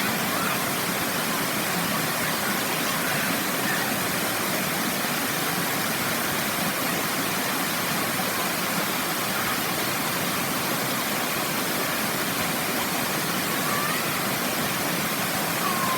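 Waterfall rushing, a steady roar of falling water with no change in level.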